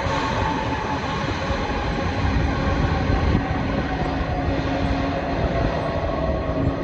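Jet airliner engines as an arriving plane passes: a loud, steady rush with whining tones that slowly fall in pitch.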